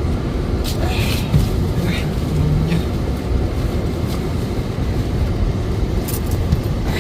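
A steady low engine rumble with a noisy hiss over it, like machinery running without pause.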